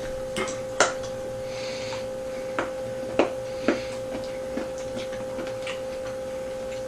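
Scattered soft clicks and rustles of small handling noises over a steady electrical-sounding hum.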